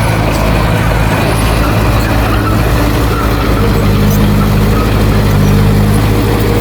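Heavy diesel engine of earthmoving machinery running steadily with a deep drone, its note shifting slightly about halfway through.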